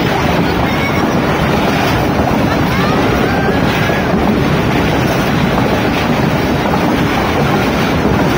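Steady rumble of a moving passenger train mixed with wind buffeting the microphone, a loud even rush with no clear breaks.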